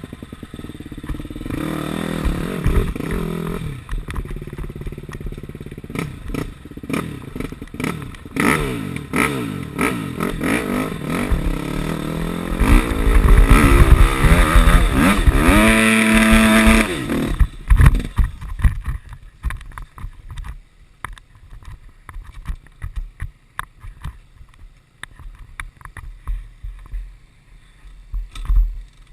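KTM 250 SX-F's single-cylinder four-stroke engine revving up and down under riding load, loudest around the middle with a briefly held high rev, then dropping away to near quiet about two-thirds of the way through, leaving scattered knocks and rattles.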